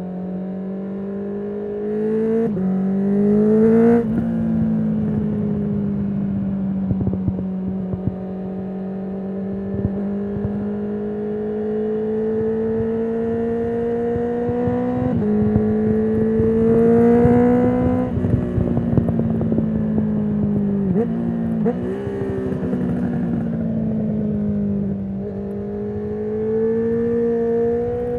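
2019 Honda CB650R inline-four running through a full Akrapovic titanium exhaust with the dB killer removed. The engine pulls steadily, its pitch rising slowly, then stepping down or up at each quick gear change several times. Scattered exhaust crackles come through mostly in the middle stretches.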